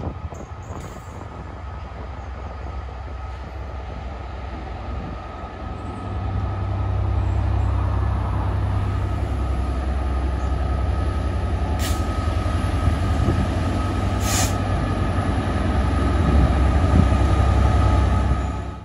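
Diesel freight train passing close by: a Direct Rail Services diesel locomotive's engine drone and the rumble of wagons on the track, growing louder about six seconds in as the train comes out from under a bridge. Two brief sharp noises come a couple of seconds apart in the middle, and the sound cuts off suddenly at the end.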